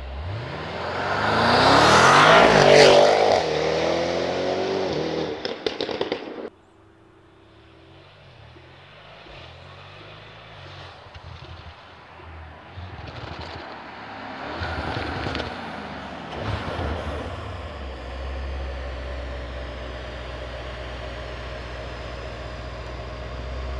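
Tuned Audi RS7 C8's twin-turbo V8 at full throttle as the car accelerates past, pitch rising and then falling as it goes by. The sound cuts off abruptly about six seconds in. Later comes a second, quieter pass, then a steady low engine drone.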